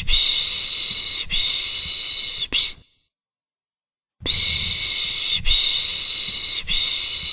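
A person shushing a baby with a long 'shhh', a second long 'shhh' and a short 'shh', then a pause of about a second and a half before the same three shushes come again.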